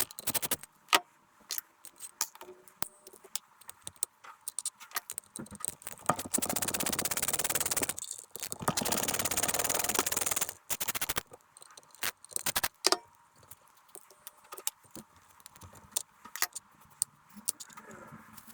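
Small metal parts and tools clinking and rattling as transmission mechatronics parts are handled, with many sharp clicks. Two steady hisses, each about two seconds long, come in the middle.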